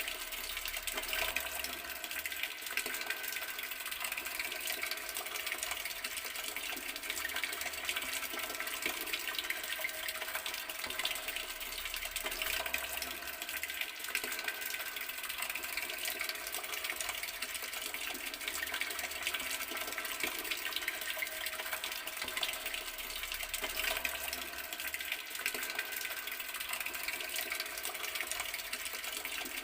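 Garden water tap running, a steady stream of splashing water that never pauses or changes.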